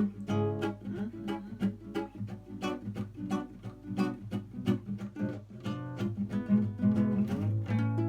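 Instrumental close of a song: a guitar picking a quick run of notes, several a second, ending on notes left to ring out and fade.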